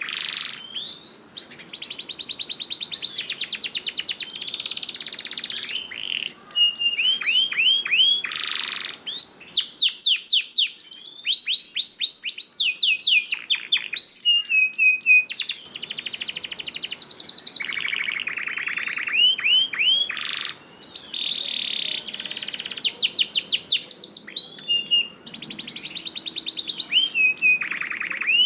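Domestic canary singing a long continuous song of rapid trills and rolls, fast repeated whistled notes that sweep up and down, switching from one trill to the next every second or two.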